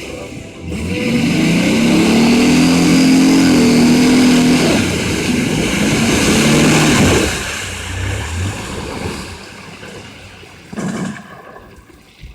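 Mazda truck's engine revving hard in the mud: it climbs and holds high for a few seconds, drops back, revs up again briefly, then settles lower, with one short rev near the end.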